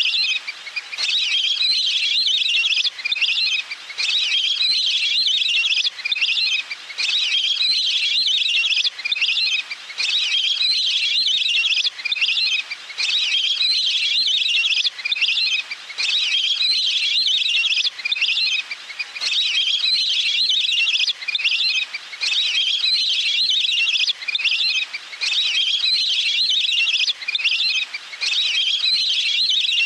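Waterfowl calls used as a hunting lure: dense, high chattering whistles in phrases that repeat about once a second, with brief breaks between them.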